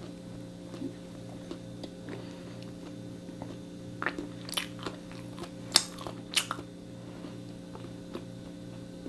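A person chewing a bite of toasted egg-and-lettuce sandwich, with a few sharp crunchy clicks between about four and six and a half seconds in, over a steady low hum.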